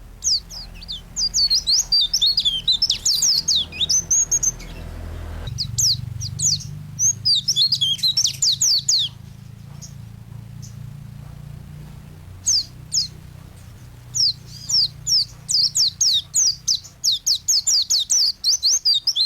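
A white-eye (pleci) in full song: rapid, high-pitched twittering phrases of quick sliding chirps, delivered in dense bursts, with a pause of a few seconds in the middle. A steady low hum sits underneath.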